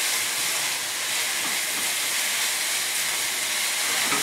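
Ground chicken with diced shallot, scallions and water chestnuts sizzling steadily in a hot pan over a gas flame, a constant frying hiss.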